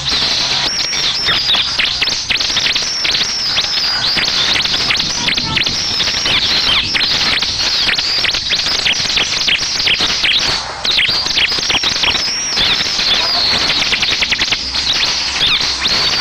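Bar-winged prinia (ciblek) song: a continuous, rapid string of high chirps, many of them arching or dropping in pitch. It is a lure recording meant to prompt a caged ciblek to answer and sing.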